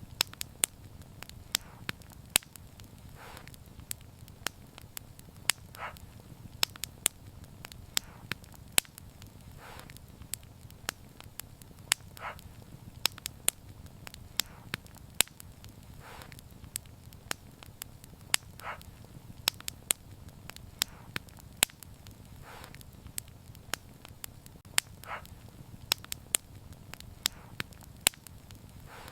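Wood fire crackling: many sharp, irregular pops and snaps over a steady low rumble, with a soft short hiss every few seconds.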